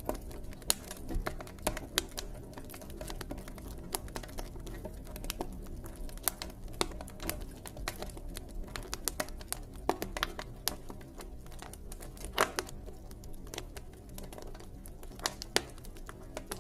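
Wood campfire crackling, with irregular sharp pops and snaps, a few louder than the rest, over a steady low rumble.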